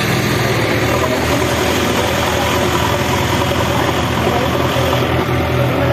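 Diesel engine running steadily at a low, even speed.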